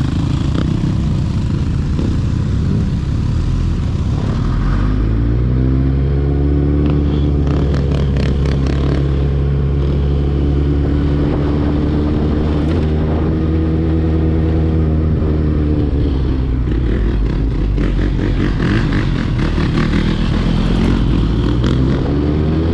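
Motorcycle engine under way: a low rumble, then from about four seconds in its note climbs steadily as the bike accelerates, holds for several seconds, and then eases off.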